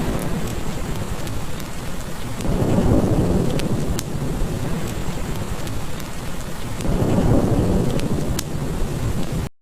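Steady heavy rain with two low rolls of thunder swelling up a few seconds apart, and scattered sharp pops from a crackling log fire. The sound cuts out abruptly for a moment at the very end.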